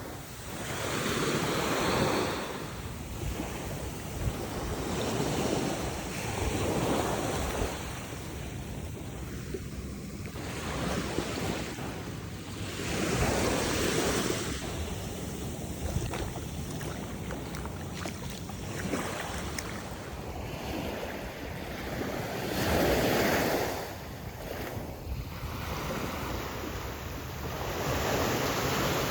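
Ocean surf breaking on a beach, the wash swelling and fading every few seconds, with some wind on the microphone.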